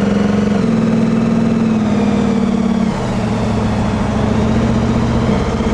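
Car engine running steadily at low revs, with a slight change in pitch about half a second in and again about three seconds in.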